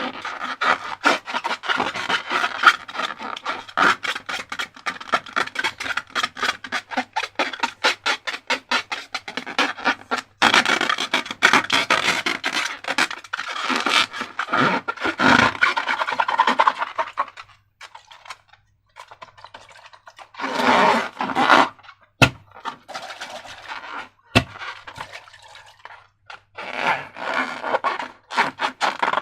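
Slime being worked by hand: dense, rapid sticky clicking and crackling that runs continuously for the first half, then comes in shorter bursts with pauses. Two sharp single clicks come about two-thirds of the way through.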